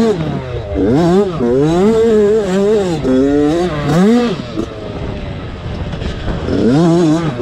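Motocross dirt bike engines revving, the pitch climbing and dropping again and again as the bikes accelerate and shift. The sound eases off for a couple of seconds past the middle, then picks up again near the end.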